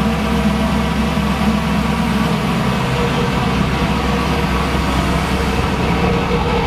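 Car engine idling steadily, its pitch holding level without revs.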